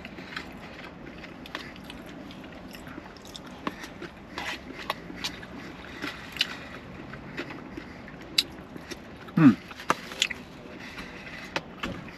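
A person chewing and eating a shrimp and salmon poke bowl, with scattered wet mouth clicks and small taps. A short falling vocal 'mm' comes about nine and a half seconds in.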